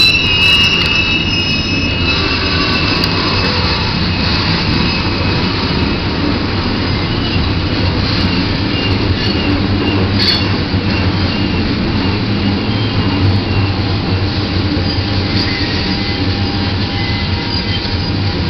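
Freight train of tank cars rolling past: a steady rumble of steel wheels on rail, with high-pitched wheel squeal that is strongest in the first couple of seconds and then comes and goes faintly.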